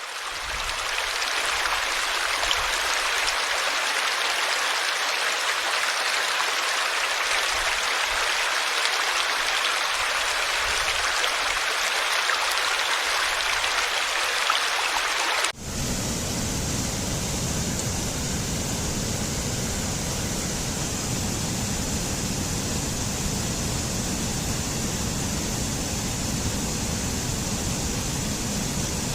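Running water: a stream's bright, hissing flow, cutting suddenly a little past halfway to a deeper, fuller rush of water like a waterfall.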